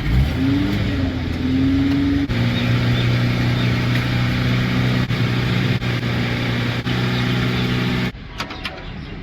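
A motor spinning up with a rising pitch, then running steadily with an even hum for several seconds, cut off abruptly about eight seconds in.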